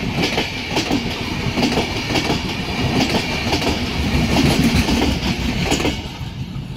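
Express train's LHB passenger coaches rushing past at speed, their wheels clattering over the rail joints in a rapid, rhythmic clickety-clack. The sound falls away about six seconds in as the last coach goes by.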